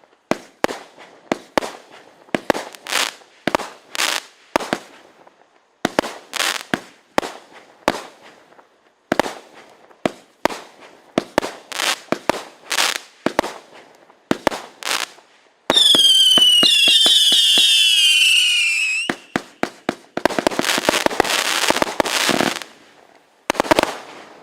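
Bright Star Texas Tornado 88-shot firework barrage cake firing: quick runs of sharp bangs. About sixteen seconds in, a loud multi-tone whistling lasts about three seconds with its pitch gliding down. A dense spell of crackling follows, then a last few bangs near the end.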